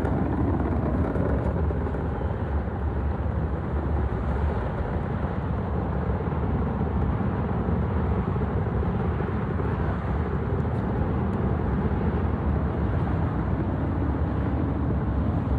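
Steady deep rumble of the Space Launch System rocket's twin solid rocket boosters and four RS-25 engines during ascent, an even, unbroken noise heaviest in the bass.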